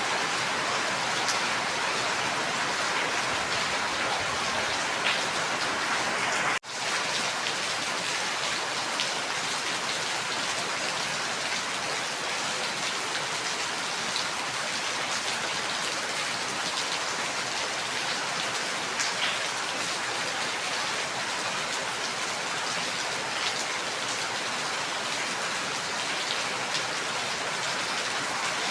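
Steady rain falling, with scattered single drops ticking on a surface. The sound cuts out for an instant about six and a half seconds in, then resumes at the same level.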